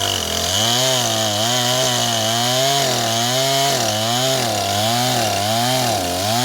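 Two-stroke chainsaw running at high throttle while cutting into a tree trunk, its engine pitch dipping and recovering in even waves about once or twice a second as the bar is worked through the wood.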